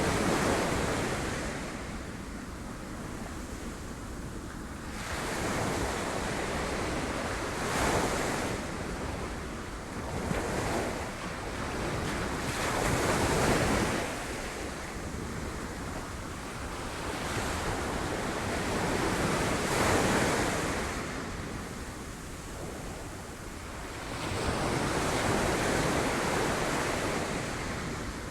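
Sea waves breaking against rocks, a rush of surf that swells and falls back every few seconds.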